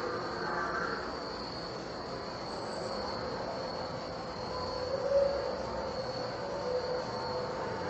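Night insects chirping steadily in a high, even drone, over a distant low rumble with faint wavering tones that swell slightly about five seconds in.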